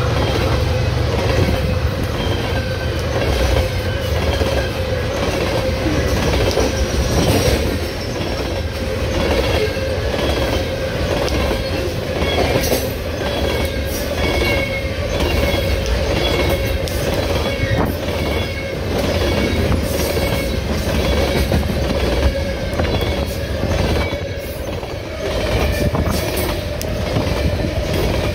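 Loaded coal train rolling past, its cars' wheels clicking steadily over the rail joints over a low rumble, with a thin steady wheel squeal.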